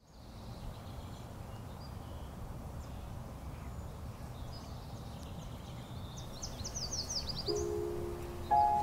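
Steady outdoor background hum with birds chirping, a quick run of short falling chirps around two-thirds of the way in. Near the end, clear ringing notes come in, one and then a higher pair.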